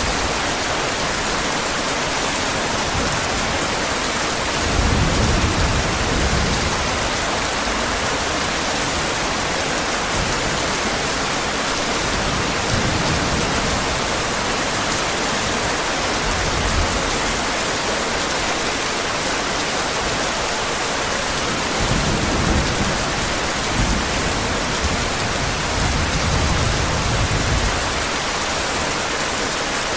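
Steady heavy rain, a dense even hiss, with low rumbles of distant thunder that swell and fade several times.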